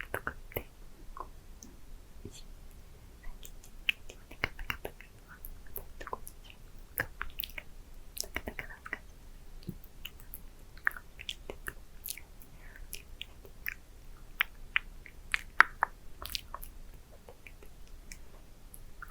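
Close-miked wet mouth sounds: lips smacking and parting in many small, irregular clicks, as lip product is worked over the lips.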